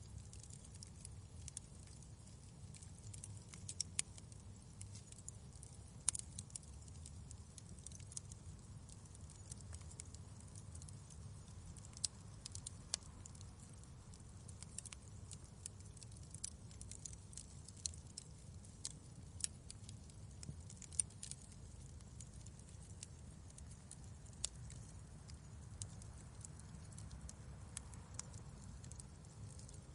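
Fireplace fire crackling: faint, irregular sharp pops and snaps over a low steady rumble.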